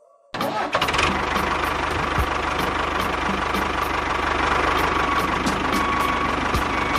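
Engine sound that starts abruptly just after the start and runs steadily with a fast, even low chugging and a steady whine.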